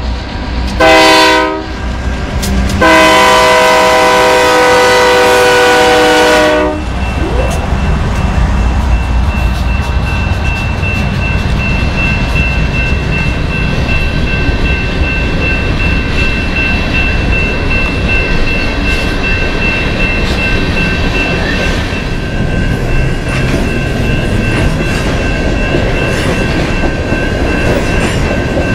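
BNSF diesel freight locomotive's air horn sounding a crossing signal: a short blast about a second in, then a long blast of about four seconds. The locomotives then pass and the coal hopper train rolls by in a steady loud rumble, with a steady high ringing tone over it.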